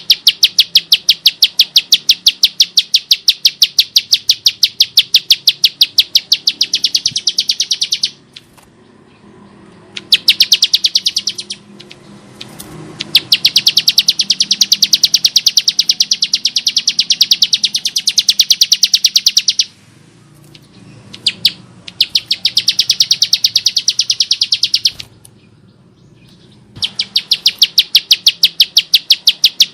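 Bar-winged prinia (Prinia familiaris) giving its harsh, rough call: long runs of rapid, evenly repeated high sharp notes in several bouts, with short pauses between them.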